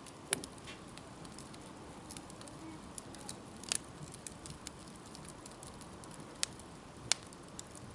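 Wood campfire crackling: a low steady hiss with a few sharp, separate pops.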